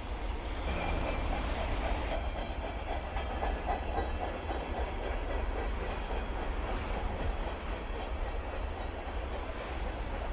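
Diesel freight train rolling past, a steady rumble of steel wheels on the rails.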